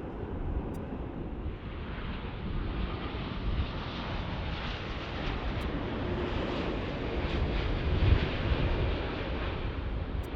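Wind buffeting the microphone, with the broad roar of a jet airliner building from about two seconds in and staying loud to the end.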